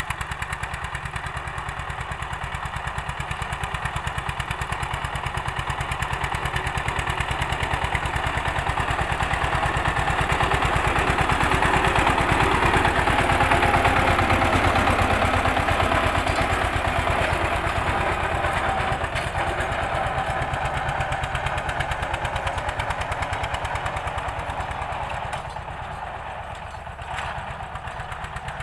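Old-model Eicher tractor's diesel engine running with a steady, rapid beat while pulling a cultivator through a field, growing louder toward the middle and then fading.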